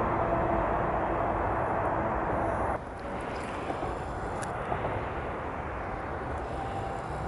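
Container freight train rolling along the rails, a steady rumble with a faint tone. About a third of the way in it cuts off abruptly, giving way to a quieter, steady distant rumble as an electric multiple-unit train approaches.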